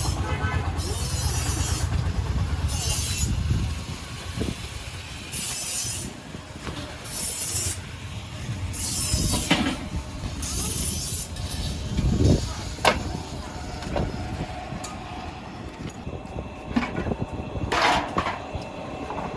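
Repeated rasping strokes of a hand tool working wood, each about half a second to a second long and coming roughly every second and a half to two seconds. A steady low machine hum comes first, and a few sharp knocks follow later on.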